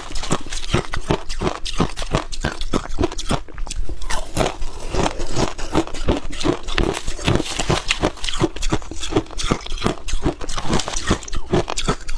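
Close-up crunching of freezer frost being chewed in the mouth: rapid, continuous crunches at about five a second.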